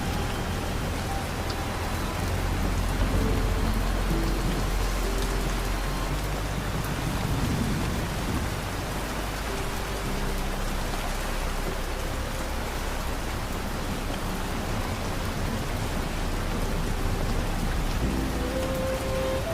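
Steady rain falling, with a low rumble of thunder beneath it, mostly in the first half. Sparse, slow music notes sound softly over the rain.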